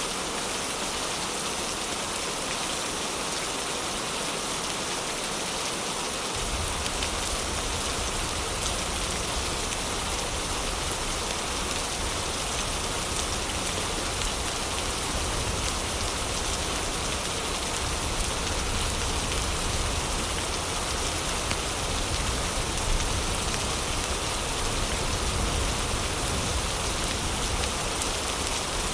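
Heavy rain falling steadily as a dense, even hiss. A low rumble comes in underneath about six seconds in and stays.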